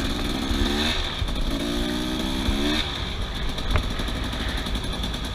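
Off-road vehicle engine revved hard twice, rising in pitch each time, as it struggles and fails to climb a slope; after the second rev it drops back to a rough, lower running.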